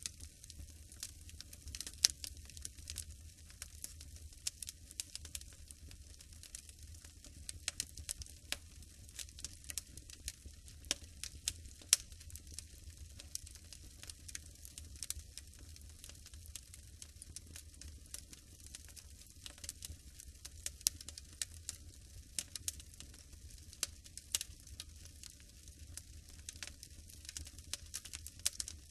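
Wood fire burning in a fireplace, crackling and popping irregularly over a low steady rumble. Two pops, about 2 s in and about 12 s in, stand out louder than the rest.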